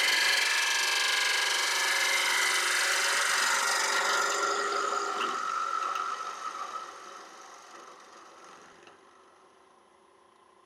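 Bowl gouge cutting into the inside of a spinning ash bowl on a wood lathe, taking out the bulk of the waste wood. The cutting stops about halfway, and the sound fades away over the next few seconds.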